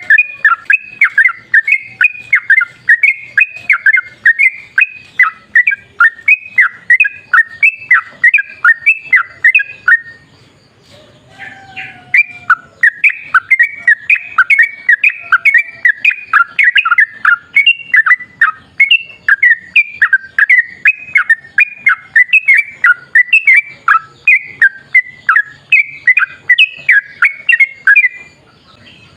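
Yellow-vented bulbul (trucukan) singing a long, rapid chattering run of short notes, about three or four a second. It breaks off briefly about ten seconds in and again near the end.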